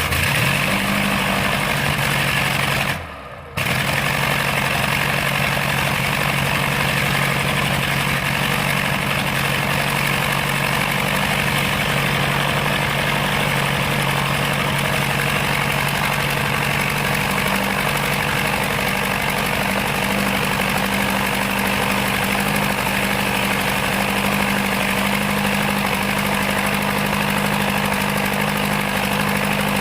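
The four-cylinder engine of a 1908 Wright Flyer Model A catching and running up, then running steadily at a loud, even speed. The sound dips briefly about three seconds in.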